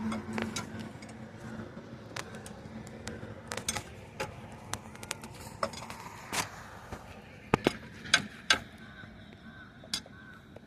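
Irregular metallic clicks and knocks of hands or tools working on a broken-down car's engine, with a few sharper clanks about seven to nine seconds in.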